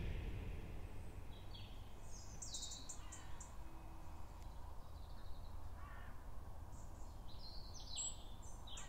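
Faint bird calls, a few short high calls scattered through, over a low steady background rumble.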